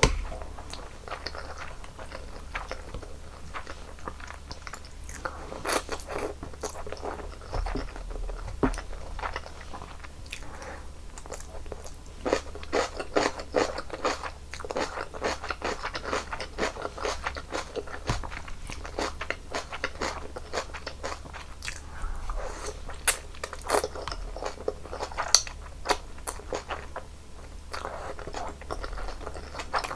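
Close-miked eating sounds of janchi guksu noodle soup: wet chewing with frequent crunchy bites and little clicks, in irregular runs that grow busier in the middle.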